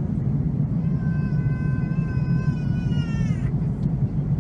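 Steady low rumble of an Airbus A330-300 airliner cabin in flight. About a second in, a thin, high wail is held for about two seconds and slides down in pitch before stopping.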